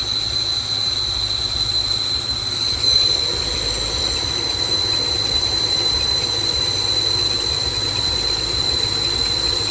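A vehicle engine running steadily, a low rumble, with a constant high-pitched whine over it.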